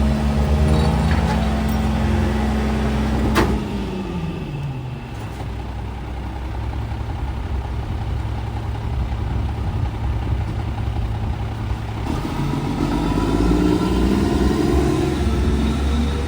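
Garbage truck's diesel engine running steadily, with a sharp click about three seconds in as the engine pitch falls away. The engine rises in pitch and gets louder again near the end.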